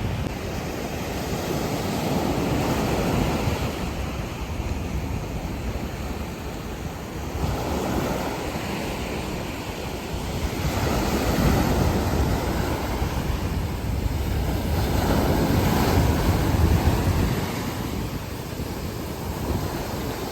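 Ocean surf breaking on a beach, the wash rising and falling in surges every few seconds, with wind on the microphone.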